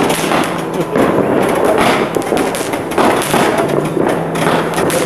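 Fireworks going off close by: ground-launched fireworks shooting coloured sparks skyward, with continuous crackling and popping and a heavier thud about once a second.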